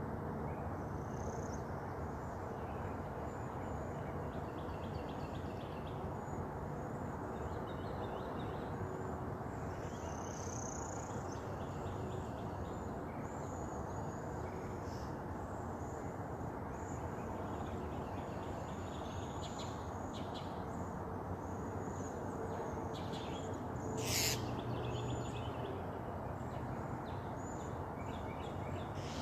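Outdoor morning ambience: scattered birds chirping and calling over a steady low background rumble, with one short sharp click about five seconds before the end.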